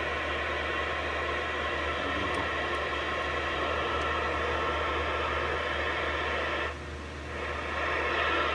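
Radio receiver hiss and static from a Stryker SR-447HPC2 between transmissions, steady and cut off above the treble, briefly quieter about seven seconds in.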